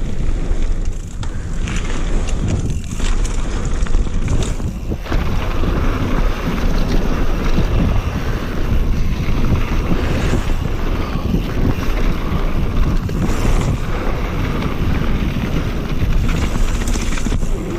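Wind buffeting the microphone over the rumble and rattle of a Polygon Vander T7 mountain bike riding down a dirt trail, with many small irregular clatters from the tyres and frame over rough ground.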